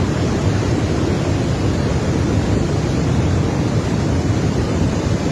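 Swollen river in flood, its fast water rushing in a steady, loud, even roar.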